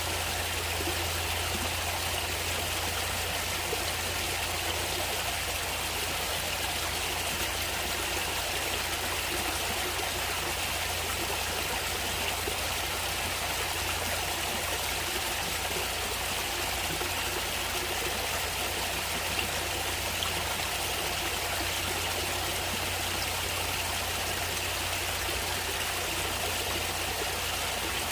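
Natural water flowing steadily, like a stream running over rocks, with an unchanging rush.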